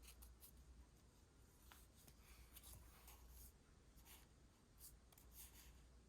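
Faint stationery-on-paper sounds during journal decorating: a series of short, scratchy strokes on paper, scattered irregularly.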